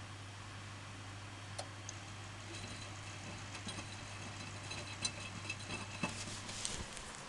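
Washing machine running: a steady low hum with scattered light ticks and clicks that come more often in the second half.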